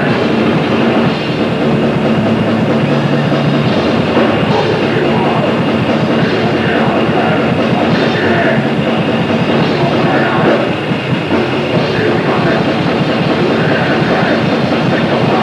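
Grindcore band playing live at full volume: heavily distorted guitars and drums merged into one continuous, dense wall of noise.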